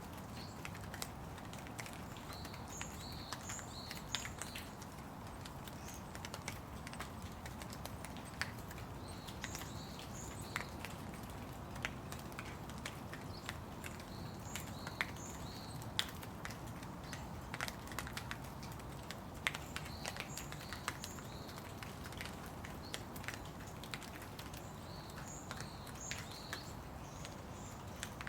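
Steady rain with irregular drops pattering and ticking close by. A bird calls in short phrases of three or four high notes, repeated about every five or six seconds.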